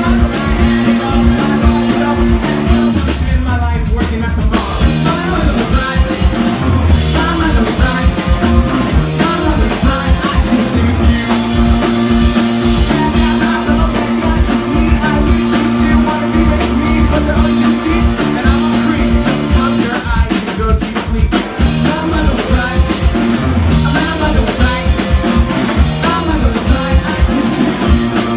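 Live rock band playing: electric guitars, bass and a full drum kit, with singing.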